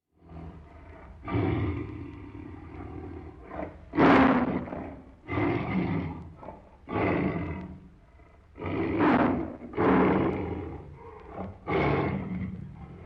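A large wild animal calling repeatedly: about seven rough, noisy calls of roughly a second each, with a low rumble underneath.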